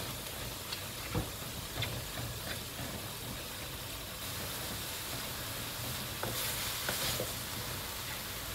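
Ground pork sizzling as it fries in a wok while a wooden spatula stirs and scrapes through it, with a few light clicks of the spatula against the pan.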